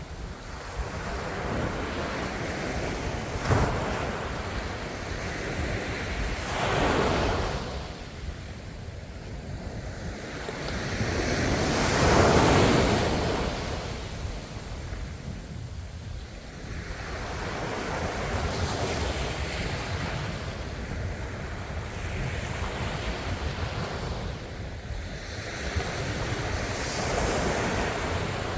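Ocean waves washing onto a shore, each surge swelling and fading over a few seconds, the biggest near the middle. There is a brief sharp splash a few seconds in.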